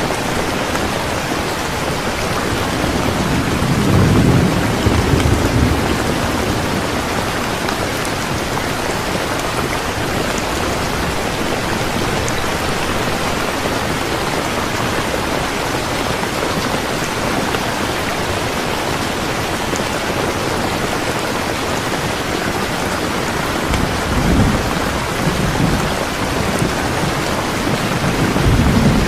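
Steady, heavy rain with low rumbles of thunder swelling about four seconds in and again twice near the end.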